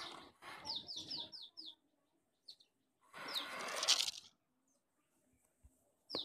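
A small bird chirping: a quick run of five short falling high notes about a second in and a single note later. Two bursts of rustling noise come with it, a weaker one at the start and the loudest around three to four seconds in.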